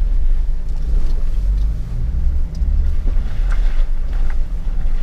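Off-road 4x4's engine running at low speed, a steady low rumble with a few faint knocks on top.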